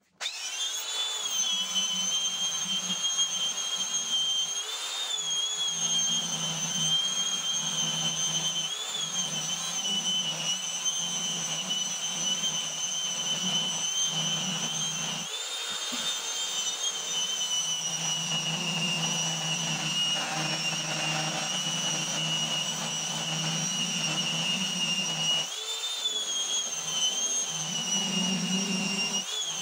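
High-speed electric motor of a power tool running steadily with a high whine, its pitch dipping briefly every few seconds as if under load.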